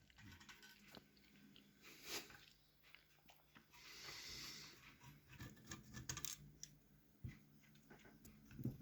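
Near silence, with faint scattered clicks and a brief soft hiss about four seconds in.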